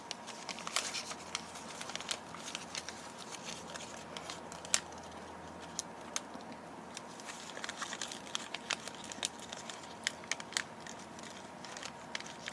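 Sheet of origami paper rustling and crinkling as it is folded and creased by hand: irregular small crackles and clicks, with one sharper snap about five seconds in.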